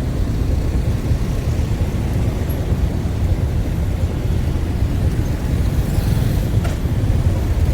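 Steady low rumble of a vehicle on the move, mostly wind and road noise, even throughout.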